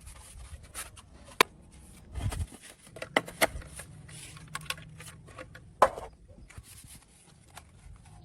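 Several sharp knocks and clicks at uneven intervals, with a low thud about two seconds in: hard objects being handled or struck.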